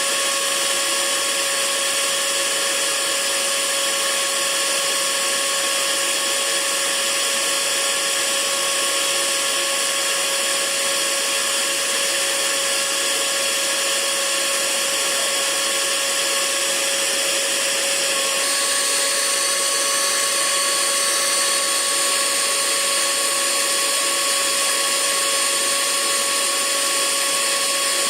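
Hair dryer running steadily: an even rush of air under a constant motor whine. The whine shifts slightly about eighteen seconds in.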